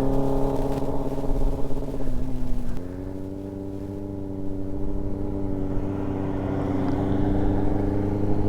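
Yamaha R6 sport bike's 600 cc inline-four engine running at a steady, high rev. About three seconds in the note drops and gets quieter, then it slowly climbs and grows louder again. It is revving a little high.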